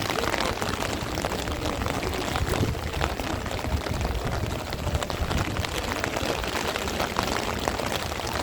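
Heavy rain falling steadily, with many close, sharp drop hits. A gusty low rumble of strong wind sits under it.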